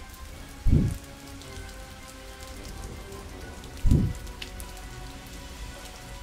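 Steady patter of falling rain, with two deep booms about three seconds apart, the first about a second in.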